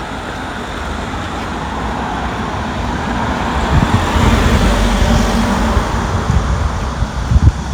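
A motor vehicle driving past on a road, its tyre and engine noise building to a peak about halfway through and then fading.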